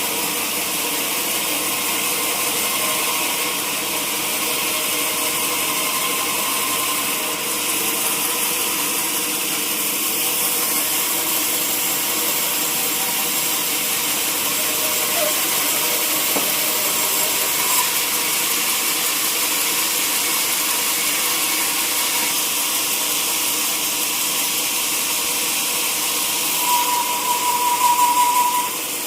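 Sawmill saw machinery running steadily with a constant hiss and a faint steady hum. Near the end it briefly gets louder, with a wavering whine.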